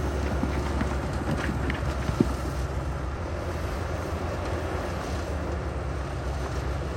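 Diesel engine of heavy earthmoving machinery running with a steady low rumble, with one sharp knock about two seconds in.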